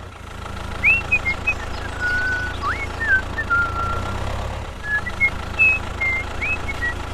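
A small engine running with a steady low drone, with scattered short, high whistling chirps over it, some rising and some held briefly.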